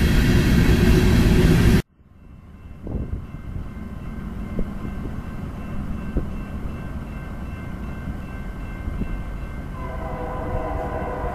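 Freight train boxcars rolling past, a loud rumble that cuts off abruptly about two seconds in. A quieter rumble of an approaching freight train follows, and near the end the lead diesel locomotive's horn starts sounding.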